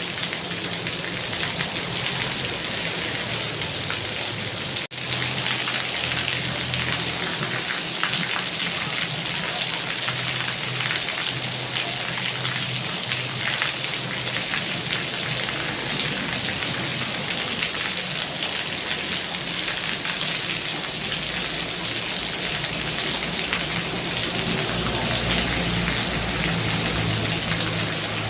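Heavy rain falling steadily, a dense patter of drops. It cuts out for an instant about five seconds in, and a low rumble comes in under it near the end.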